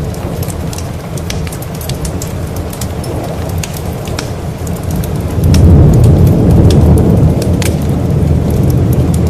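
Steady rain with scattered sharp crackles and pops from a wood fire. About halfway through, a deep roll of thunder swells up and keeps rumbling.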